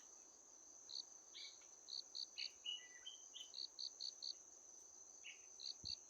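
Insects, such as crickets, keep up a steady high-pitched drone. Over it a bird calls short chirps in quick runs of two to four notes, with a few brief gliding notes among them.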